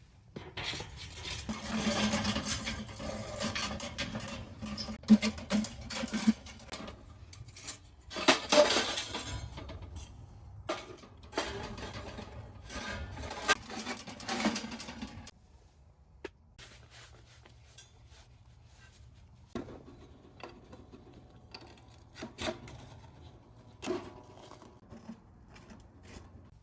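Cookware and utensils being handled, clinking and clattering. The clatter is busy for about the first fifteen seconds, then drops to occasional knocks and clicks.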